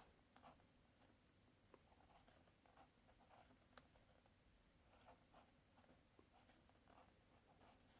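Near silence: faint room tone with a few scattered small ticks and scratches, the sharpest a little under four seconds in.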